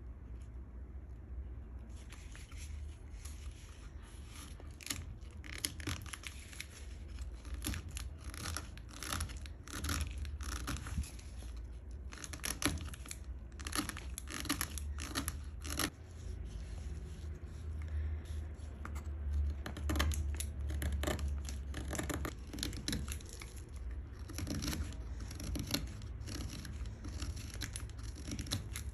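A small piece of walnut wood being worked by hand with quick scraping strokes, coming in runs with short pauses between them, over a steady low hum.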